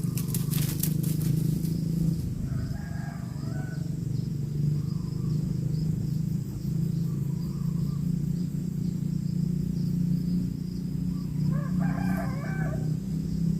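A bird calling twice, briefly about three seconds in and more strongly near the end, over a steady low hum and a thin high insect buzz, with a quick run of clicks in the first two seconds.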